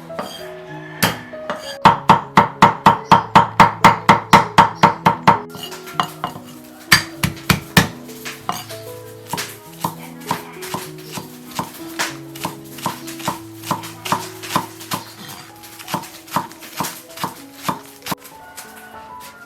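Kitchen knife chopping on a cutting board. A fast, loud run of about four chops a second lasts a few seconds, then lighter, irregular chops follow, all over background music.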